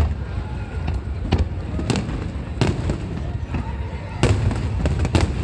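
Aerial fireworks display: a run of sharp bangs about every second over a steady low rumble of shells going off, with the loudest bang about four seconds in.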